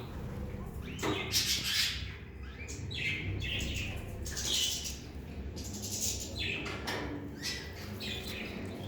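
Many caged songbirds, goldfinches and canaries, chirping and twittering in overlapping short calls, over a steady low background rumble.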